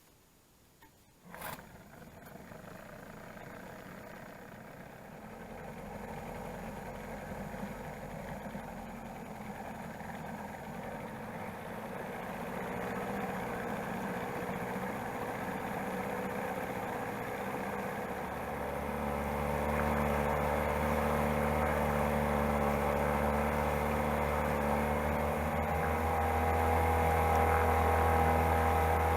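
A motorboat's engine running, gradually growing louder, then settling into a louder, steady hum about two-thirds of the way through as the boat gets under way. A short sharp sound comes just before the engine noise builds.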